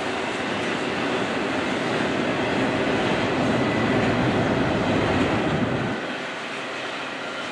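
Double-stack intermodal container train rolling past on well cars: steady noise of wheels and cars on the rails, louder in the middle and easing off about six seconds in.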